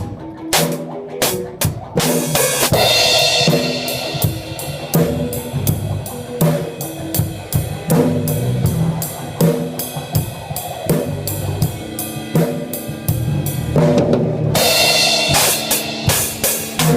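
Band rehearsing a song, with a full drum kit loudest: kick, snare and a steady, fast cymbal pattern, and crash cymbals washing about two seconds in and again near the end. Other instruments hold pitched notes underneath.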